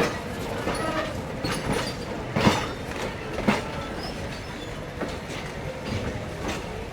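Train rolling on track: a steady rumble with irregular sharp clanks of the wheels over the rail joints.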